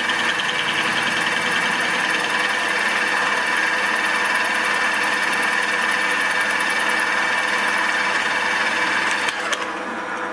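Small milling machine taking a light facing cut with a homemade fly cutter: a steady, even machine whine with a high ringing tone. About nine seconds in the sound weakens, and it stops near the end.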